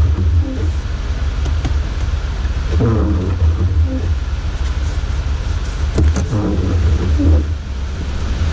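Vehicle engine idling with a steady low drone, with a few brief muffled sounds now and then.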